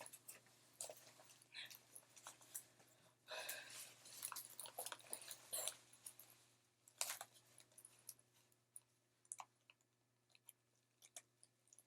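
Faint rustling and scattered clicks of a vest being handled and put on, with a denser patch of rustling about three to five seconds in and sparser clicks near the end.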